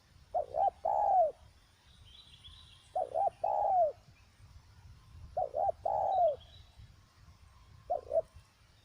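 Spotted dove cooing: four phrases about two and a half seconds apart, each two short notes followed by a longer falling coo, the last phrase cut short to the two short notes. Faint high chirps from other small birds sound between the phrases.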